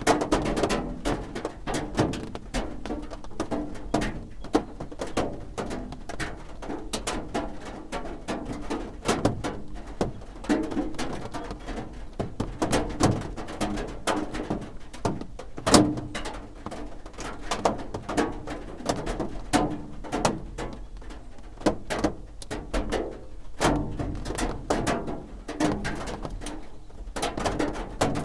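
Rain drops drumming on a roof, a dense, irregular patter of individual drop hits.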